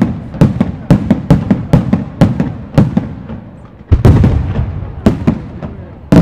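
Aerial firework shells bursting in a rapid string of loud bangs, about two to three a second, each with an echoing tail. A heavier, longer boom comes about four seconds in.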